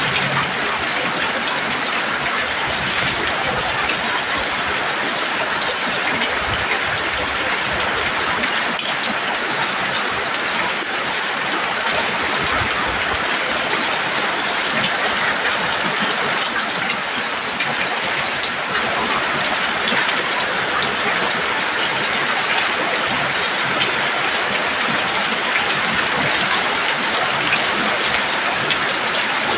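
Heavy rain pouring steadily on a roof, a dense, even hiss of drops.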